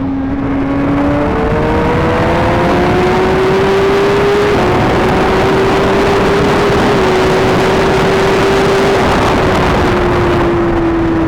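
Suzuki GSX-R1000's inline-four engine accelerating hard through the gears: its pitch climbs and dips a little at each of three upshifts, then holds nearly steady and eases slightly near the end. Heavy wind rushes on the microphone at speed.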